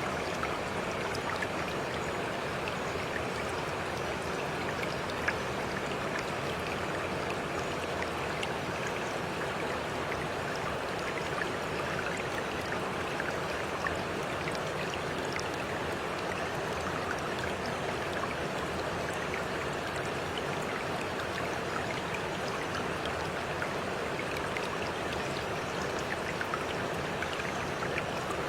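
Steady flowing water, like a small stream, with many small splashes and drips throughout.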